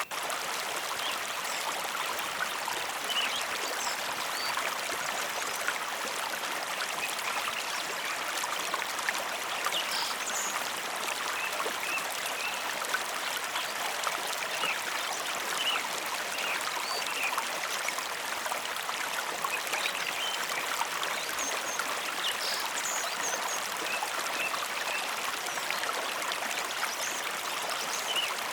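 A mountain river flowing: a steady rush of water with many brief higher splashes and trickles on top.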